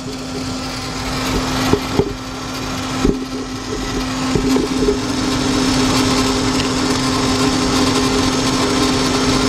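A 2004 Lincoln Navigator's 5.4-litre V8 idling with a cylinder misfire, running steadily with a constant hum, with a few sharp knocks in the first three seconds.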